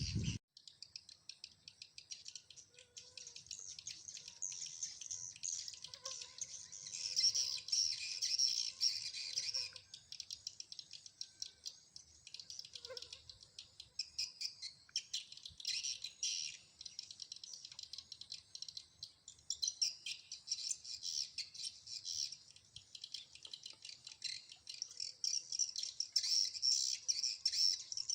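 Swiftlets twittering: dense, continuous high chirping, swelling louder in several stretches.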